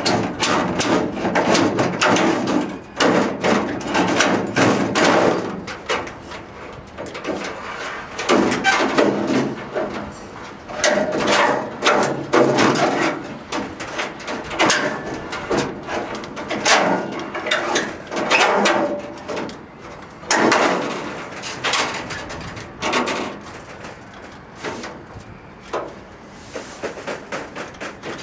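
Sheet metal being worked by hand: irregular hammer blows, knocks and clatter, in bunches with short quieter gaps between.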